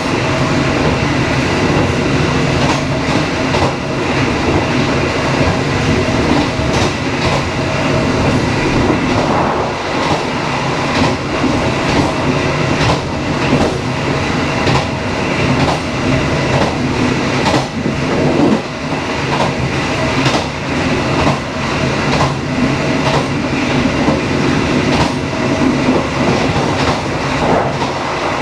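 Dharmawangsa passenger train running along the track: a steady rumble with frequent clicks of the wheels over rail joints.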